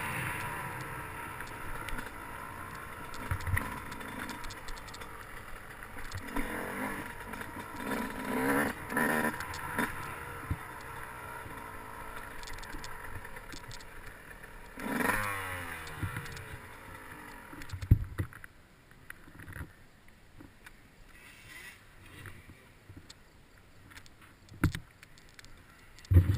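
Dirt bike engine running and revving on a motocross track, dropping in pitch as the throttle closes about fifteen seconds in. It is quieter in the last third, with scattered knocks.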